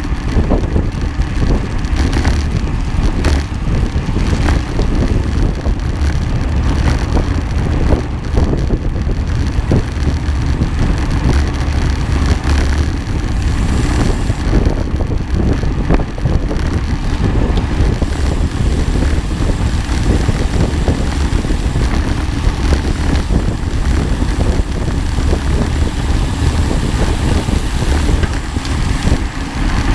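Wind buffeting the microphone over the steady low rumble of a vehicle in motion, with irregular knocks and bumps.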